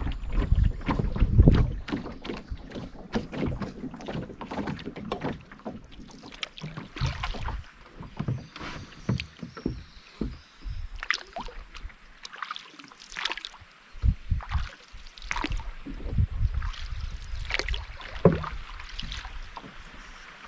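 A canoe being paddled: irregular paddle splashes and drips of water, with low knocks and rumble that are heaviest in the first couple of seconds.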